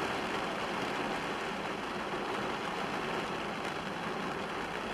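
Heavy tropical-storm rain falling steadily on a car, heard from inside the car as an even hiss.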